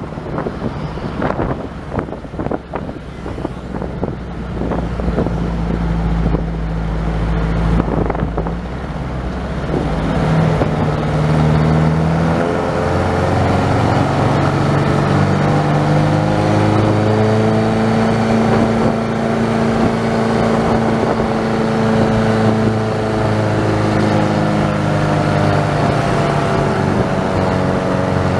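Vehicle engine and road noise while driving, with wind buffeting at first. From about ten seconds in, the engine's pitch rises and falls slowly with speed.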